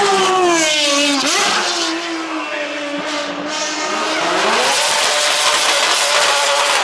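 A performance car's engine running hard with tyre squeal over it. The engine note falls through the first second, holds steady, then climbs again about five seconds in.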